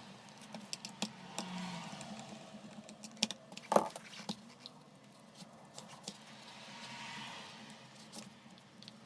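Scattered small clicks and taps of hard objects being handled, with one louder knock near the middle.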